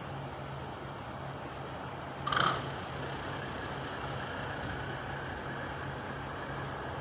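Truck engine running steadily, with one short, sharp sound about two and a half seconds in.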